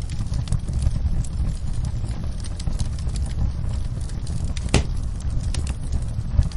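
Fireplace wood fire crackling: a steady low rumble of the flames with scattered small crackles and one sharper pop about three-quarters of the way through.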